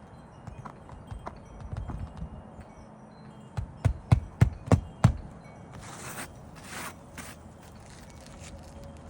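Hand hammer driving roofing nails into a 3-tab asphalt shingle: a quick run of about six sharp strikes near the middle, followed by a brief scraping.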